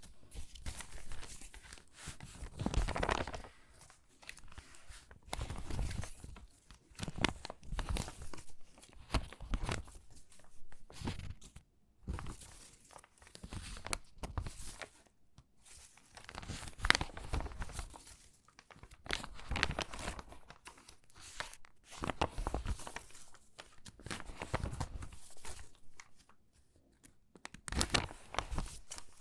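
Stiff, water-damaged magazine pages being handled and shuffled, crinkling and crackling in irregular bursts with short pauses between.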